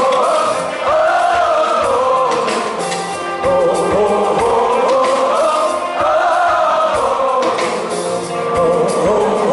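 Live rock band playing, with several voices singing a repeated phrase, a new line starting about every two and a half seconds.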